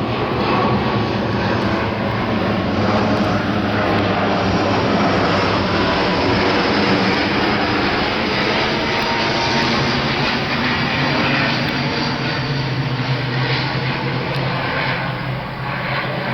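ATR 72 turboprop airliner's twin Pratt & Whitney PW127 engines and propellers running, a steady drone with a low hum and a wide rushing noise, easing slightly near the end.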